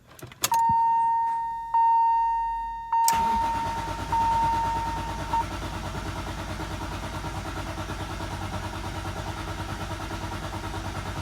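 A warning chime sounds in a few decaying dings as the ignition is switched on. About three seconds in, the Lamborghini Murciélago V12's starter begins cranking steadily without the engine firing, turning it over to build oil pressure in a dry engine.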